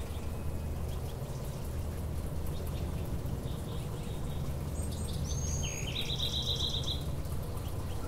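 A small songbird sings a short phrase about five seconds in, ending in a fast trill of repeated notes, over a steady low background rumble.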